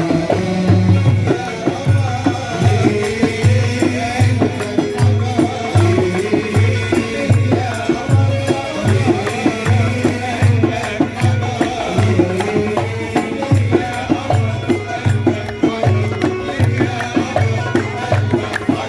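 Port Said simsimiyya band playing: a plucked simsimiyya lyre melody over a steady low drum beat with shaken hand percussion.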